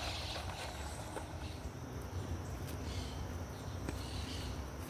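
Outdoor dawn ambience: insects holding a steady high-pitched tone, with faint bird calls and a low steady rumble underneath.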